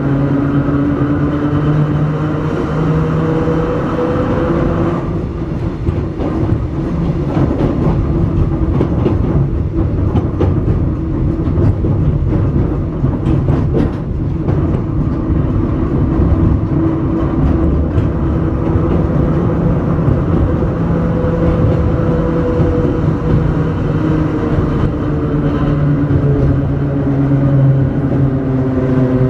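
Hakone Tozan Railway Moha 1-type electric railcar running on the climb from Hakone-Yumoto, heard on board: a steady hum of motor and gearing over the rumble of wheels on rail. About five seconds in the hum gives way to rougher rail rumble with a few clicks, and it comes back strongly about two-thirds of the way through.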